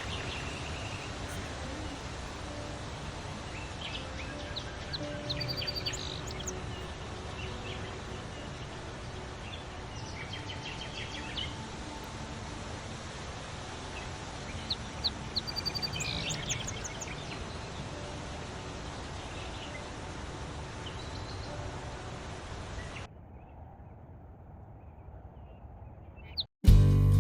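Songbirds chirping and singing in short repeated phrases over a steady outdoor background hiss. About 23 seconds in the background suddenly drops away, and just before the end acoustic guitar music starts.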